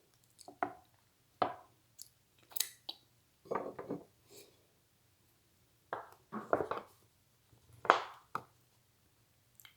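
A fork cutting through lasagna and knocking and scraping against the plate, with no knife to hand: a string of irregular taps and scrapes with short pauses between them.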